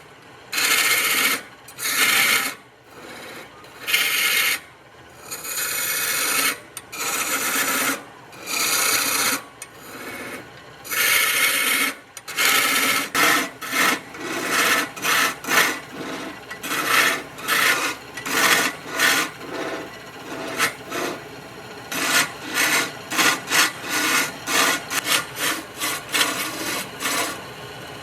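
A tool scraping or rasping across wood in repeated strokes. The strokes are longer and spaced apart at first, then shorter and quicker, about two a second, from about halfway through.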